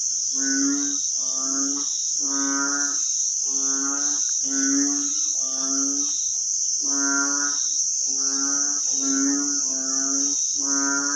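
Frogs calling from the floodwater in a string of short, pitched croaks, about one or two a second with a brief pause around six seconds in, over a steady high-pitched chorus of crickets.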